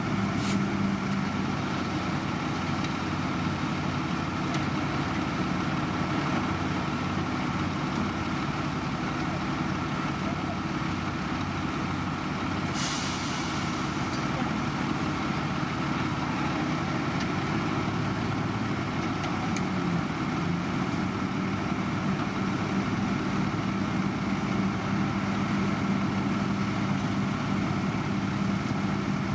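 Heavy construction machinery engine running steadily, with a short hiss of released air about halfway through.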